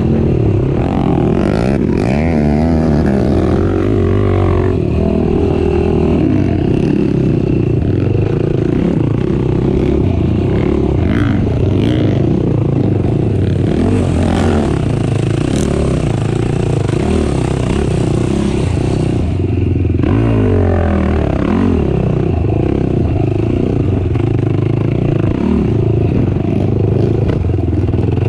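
Racing ATV engine running hard, revving up and down, with clattering and scraping from the machine over rough ground.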